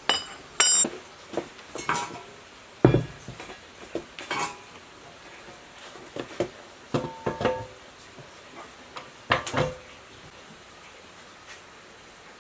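Metal parts and tools being handled: a string of irregular clinks and knocks, several ringing briefly, with one heavier thump about three seconds in.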